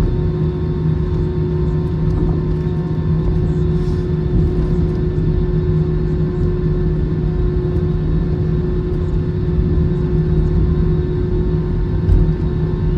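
Cabin noise of an Airbus A321-211 taxiing after landing: a steady low rumble of the CFM56 jet engines at idle with a constant hum, and one low bump about twelve seconds in.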